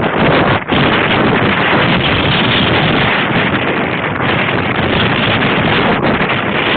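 Wind buffeting the microphone of a Looxcie 2 camera on a moving bicycle: a loud, steady rush of noise, briefly dipping about half a second in.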